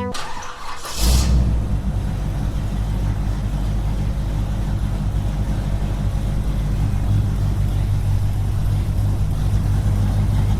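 A brief hissing rush, then about a second in a small motor starts up and runs with a steady low hum.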